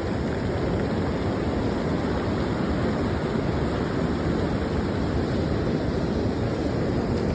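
Ocean surf on the beach, a steady, even rushing, mixed with wind buffeting the microphone.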